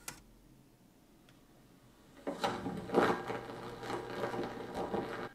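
A VCR running a videotape: a click, then about two seconds in a mechanical whirring and clatter that cuts off suddenly near the end.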